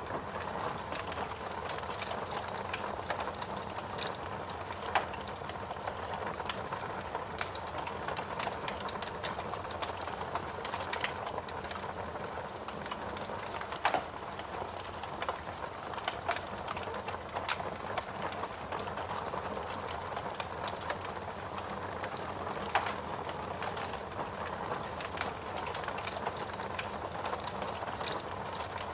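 Log fire burning in a fireplace: a steady crackling hiss full of small pops, with a few louder snaps about five, fourteen and twenty-three seconds in.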